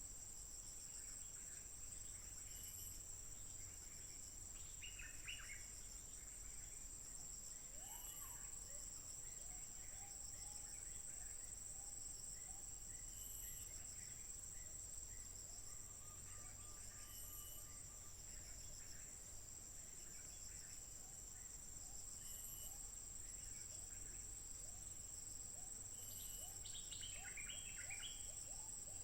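Stripe-throated bulbul singing short bubbly phrases, about five seconds in and again near the end, over a steady high insect drone.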